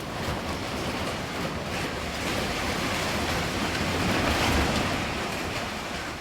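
Hurricane-force storm wind buffeting the microphone: a steady rushing noise that grows a little louder toward the middle.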